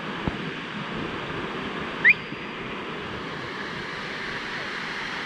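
Steady rush of falling or running water from a jungle stream or waterfall. About two seconds in there is a single short, loud chirp that rises in pitch.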